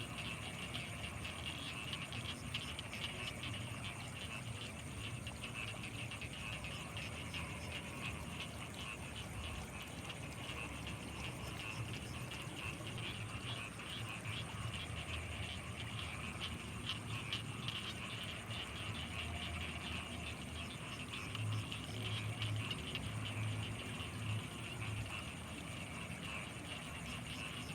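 Night chorus of frogs and insects: a dense, fast-pulsing trill with a steady high-pitched insect whine above it. A low throbbing grows stronger about three quarters of the way through.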